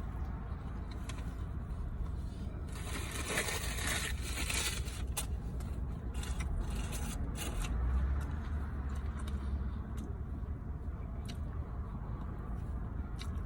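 A fried chicken sandwich being handled and bitten into: a few seconds of crackly rustling and crunching a few seconds in, then scattered clicks of chewing, over a steady low hum.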